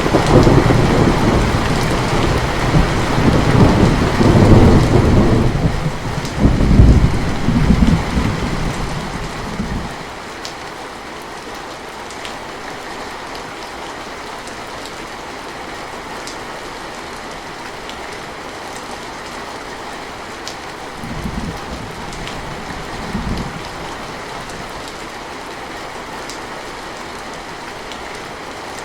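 Steady rain with a long roll of thunder already under way at the start, swelling again about six seconds in and dying away by about ten seconds. Two brief, fainter thunder rumbles come later over the rain.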